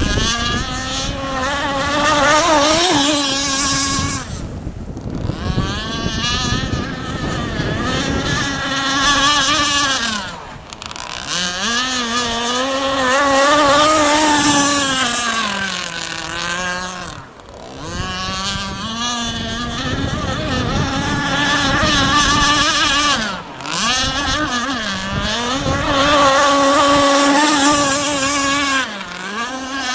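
Radio-controlled racing catamaran's SX254 Billet motor running at high revs, its pitch wavering and sagging as the boat runs and turns. The throttle backs off briefly about five times, the engine note dropping and picking up again each time.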